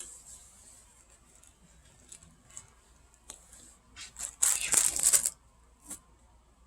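Small scattered clicks and taps of food being handled, then a second-long burst of crinkling, crackly rustle about four and a half seconds in.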